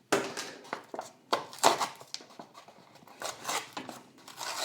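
Die-cast car packaging, a card-and-plastic blister pack, being torn open by hand: a run of short, irregular rips and scrapes.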